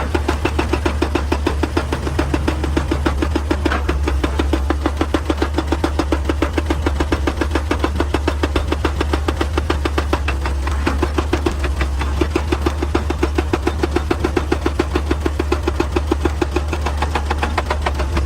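Excavator working: a steady, rapid, even pounding over a constant low engine drone, unbroken throughout.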